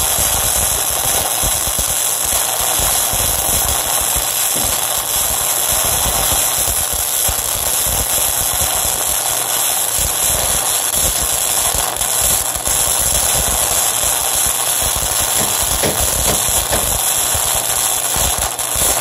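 Flux-core wire-feed welding arc on mild steel plate, a steady loud crackling sizzle from a modified 120-volt Harbor Freight welder. The welders say the arc is breaking up because the machine is running hot.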